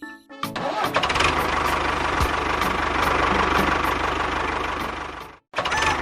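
An engine starts about half a second in and runs steadily with a rapid, even firing beat. It cuts off abruptly just over five seconds in and picks up again a moment later.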